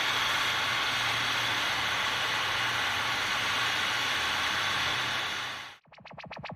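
Steady rushing noise with a faint low hum, which cuts off abruptly near the end. Music with a fast pulsing beat and distorted guitar starts straight after.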